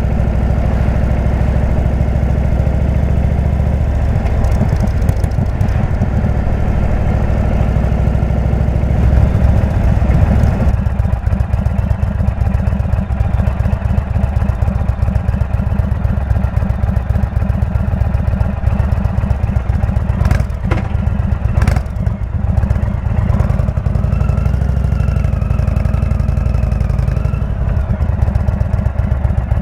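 Indian V-twin motorcycle with a Jekill&Hyde exhaust running under way, its low rapid pulsing steady throughout, with two short knocks a little past the middle.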